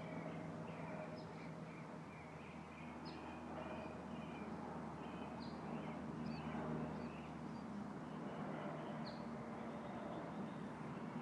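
Small birds chirping, short calls repeated throughout, over a steady hiss of breeze in the tree's leaves. A faint low steady hum lies underneath.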